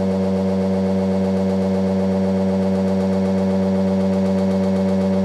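Prototype ReGen-X electric motor running at constant speed: a steady hum with a strong low tone and a stack of higher overtones, unchanging throughout.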